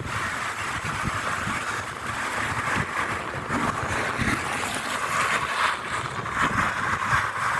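Wind buffeting the microphone in uneven gusts over a steady hiss of rain.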